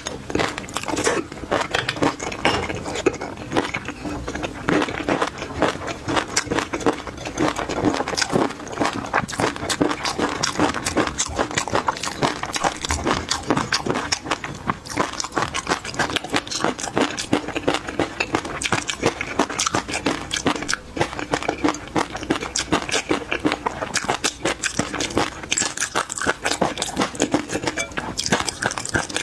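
Close-miked chewing and crunching of chopped peanuts in chili sauce with whole garlic cloves: many small crackles and clicks in quick succession, without a break.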